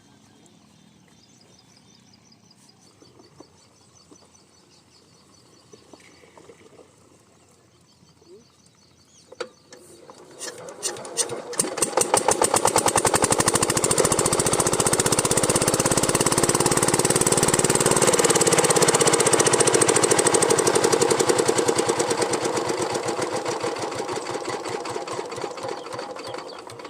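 A diesel engine running with a rapid, even firing beat. It comes in about ten seconds in, grows loud within a couple of seconds, holds steady, then fades away over the last few seconds.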